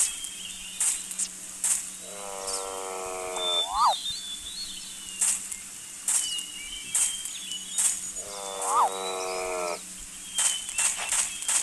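An animal calling twice, each call a drawn-out pitched cry of about a second and a half that ends in a quick upward squeal. Short high bird chirps sound between and around the calls.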